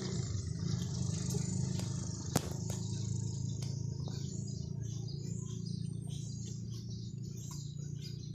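Birds chirping in quick, repeated short calls, over a steady low hum, with a few sharp clicks in the first half.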